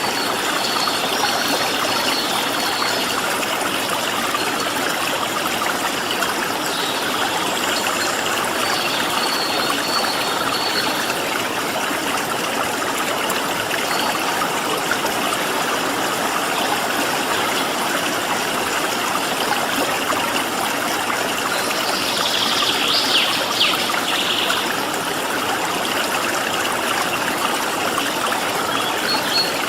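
Stream water flowing and splashing steadily. Faint high bird calls come through now and then, with a brief louder burst of high chirps about two-thirds of the way in.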